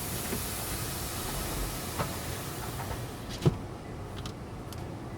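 Steady hissing noise of tunnel car wash equipment, heard from inside the car at the wash entrance. The high hiss drops away a little past three seconds, followed by a sharp click.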